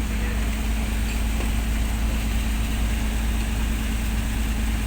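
Engine aboard a squid fishing boat running steadily: a constant low hum with a steady drone, without change.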